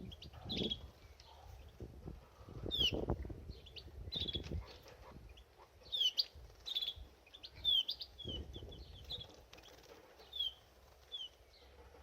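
Canary giving short, repeated chirp calls, each a quick downward note, broken by several bursts of water splashing and wing fluttering as it bathes in a birdbath.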